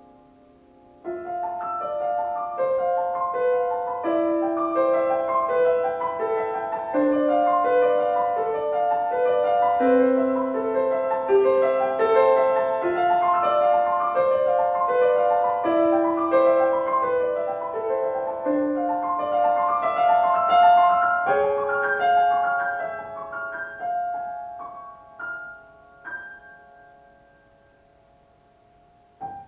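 Solo acoustic piano played by a young child: a flowing melody over a steadily moving accompaniment starts about a second in, then thins to scattered single notes and fades away near the end.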